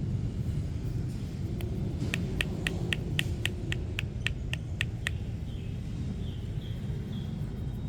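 A steady low rumble of street traffic, with a quick run of about fourteen short, evenly spaced chirps (about four a second) from a small animal, followed by a few fainter chirps near the end.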